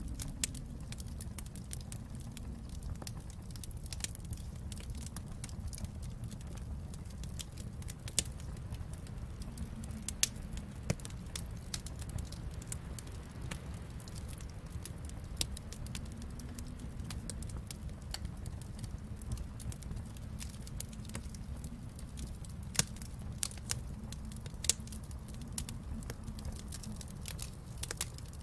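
Wood fire burning in a fireplace: a steady low rumble with frequent irregular crackles and sharp pops, a few of them louder.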